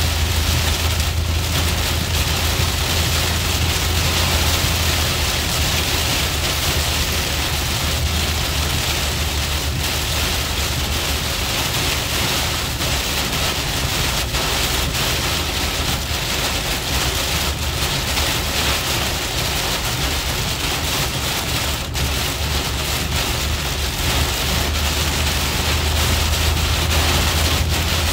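Very heavy rain falling steadily on a moving car's windshield and roof, heard from inside the cabin, over a low, steady hum of the car on the wet road.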